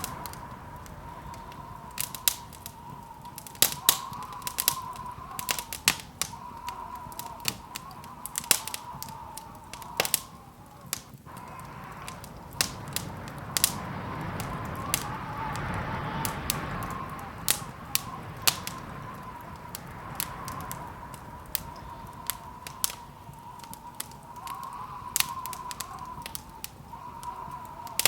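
Wood fire crackling in a fireplace: irregular sharp pops and snaps over a soft steady hiss, with a rush of noise swelling and fading about halfway through.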